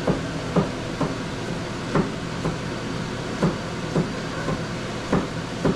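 Newly installed range hood's exhaust fan running on a strong setting: a steady rush of air with a low hum. Short light knocks come through it about twice a second.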